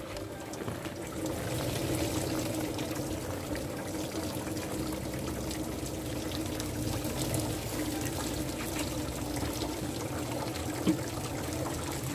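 Liquid pouring steadily, growing fuller about a second and a half in, with a single sharp knock near the end.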